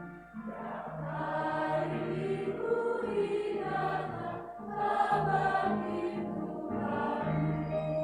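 Church choir singing a hymn in several voice parts, held notes in phrases, with keyboard accompaniment under it.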